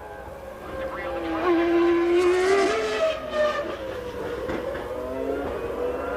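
Formula One car engines running at high revs, their pitch rising and falling as the cars accelerate, change gear and slow. More than one engine is heard at once, loudest about two seconds in.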